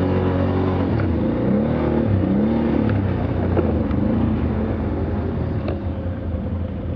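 Motor vehicle engine running under way, revving up and falling back a few times.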